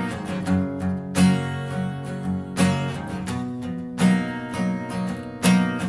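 Acoustic guitar strummed in a steady rhythm between sung lines, a short instrumental passage of a live band performance.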